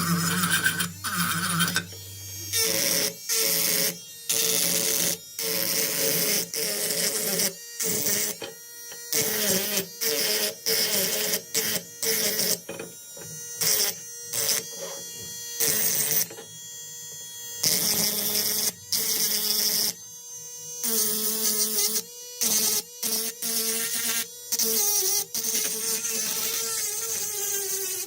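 Small electric power tool motor whining steadily at a high speed, chopped into many short pieces that start and stop abruptly.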